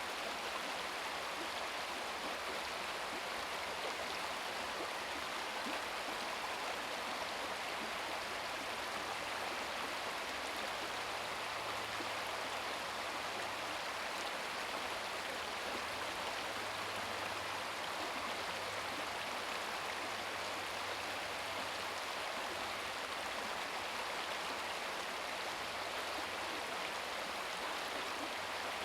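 Babbling brook: a small stream's water flowing and splashing steadily, with no change through the stretch.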